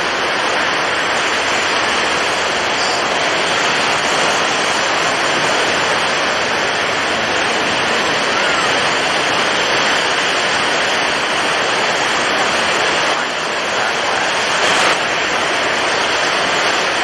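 Storm at sea: strong wind and heavy surf blending into a dense, steady rush of noise, with a slight dip in loudness about three-quarters of the way through.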